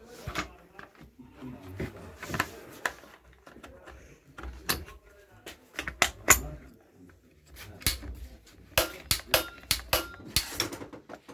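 Irregular clicks, taps and clatter of hand tools and small metal parts being handled during chainsaw reassembly, more frequent in the second half.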